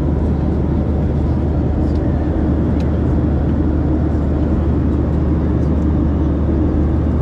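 Steady in-cabin noise of a Boeing 737-700 in flight: a constant low drone of its CFM56 engines and rushing air, with a few faint small clicks on top.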